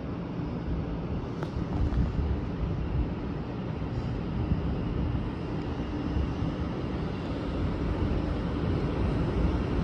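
Shinkansen 500 Series bullet train approaching the platform as it arrives: a low, steady rumble that slowly grows louder.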